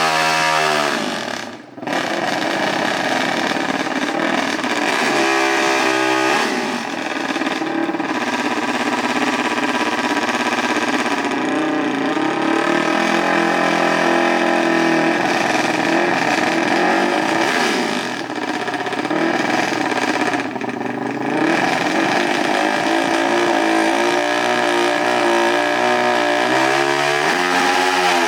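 Small off-road vehicle engine running loud and close, revving up and down so its pitch rises and falls, with a short drop in the sound about two seconds in.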